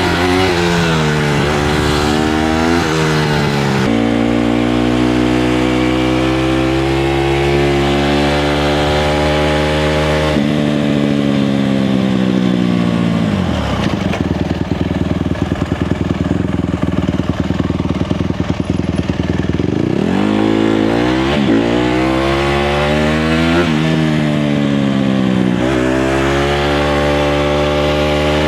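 Honda CRF150R dirt bike's single-cylinder four-stroke engine being ridden: revs climb and drop in steps as it goes through the gears, hold steady for several seconds, then fall to a slow low-rev run with separate firing pulses around the middle before climbing through the gears again.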